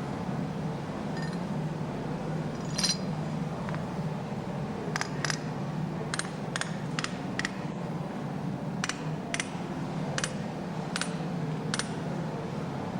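Metal striking metal while the lower saddle of a forge tail hammer is set into the anvil: about a dozen light, sharp clinks at irregular intervals, most of them in the second half. A steady low hum runs underneath.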